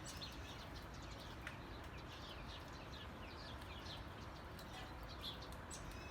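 Faint birds chirping: many short, high, falling chirps over a soft background hiss.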